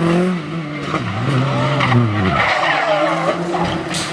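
Rally car engine revving and backing off as the car skids, its note dropping away twice, followed by wavering squeals and a sharp crack near the end.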